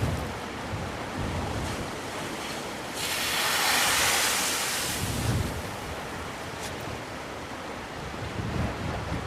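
Sea waves on the shore, with one wave washing in with a loud hiss about three seconds in and dying away by about five seconds. Wind buffets the microphone in low gusts.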